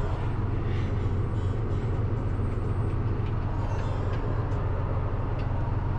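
A tractor's engine running steadily, a constant low rumble heard from inside its closed cab.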